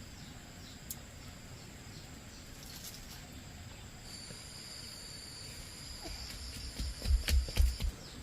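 Steady high-pitched insect trill outdoors, joined about four seconds in by a clearer continuous note. Several dull low thumps come near the end.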